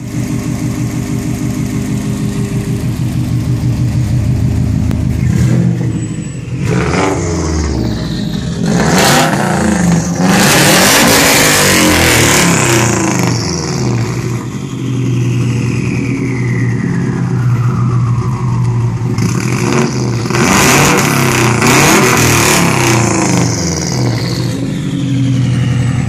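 Subaru WRX wagon's turbocharged flat-four engine, breathing through a full aftermarket exhaust, idling and then revved hard several times, the exhaust note rising loudly and its pitch sliding back down toward idle after each rev.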